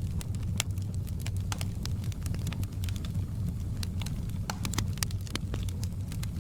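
Wood fire crackling in a fireplace: irregular sharp pops and snaps, a dozen or more, over a steady low rumble of the flames.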